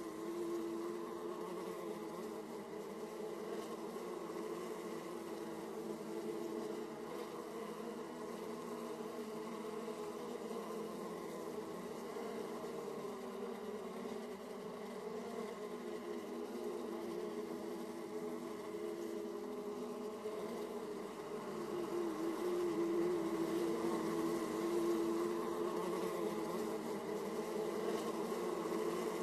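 Many honeybees buzzing at a hive entrance: a steady, dense hum of wingbeats that grows a little louder about two-thirds of the way through.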